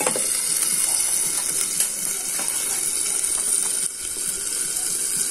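Shallots, garlic, bird's-eye chilies and tomatoes frying in hot oil in a lidded wok: a steady sizzle with small scattered pops while they soften for sambal. There is a sharp click of the aluminium lid being set on the wok at the start.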